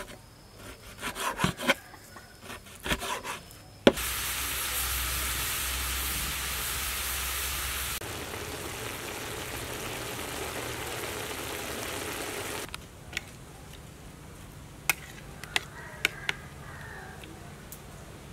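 Kitchen sounds: a few sharp knocks of a knife on a wooden cutting board, then beef and vegetables sizzling loudly in a hot pan for about nine seconds, then a few light clicks as the sizzle stops.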